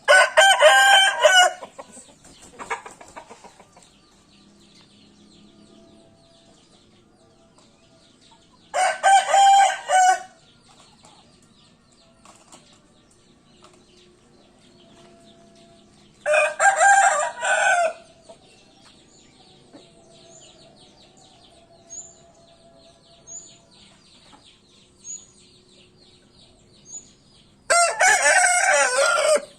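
Bangkok game rooster crowing four times, each crow about a second and a half long and several seconds apart. Faint short chirps fall between the later crows.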